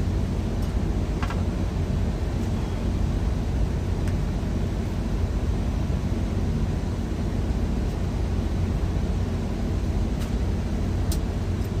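Steady low rumble of an idling truck engine, with a few faint light clicks over it.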